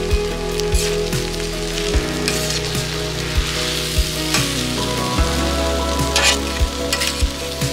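Yellow noodles and egg sizzling on a hot flat-top griddle as two metal spatulas toss and stir them. Sharp clacks of the spatulas striking and scraping the plate come every second or so.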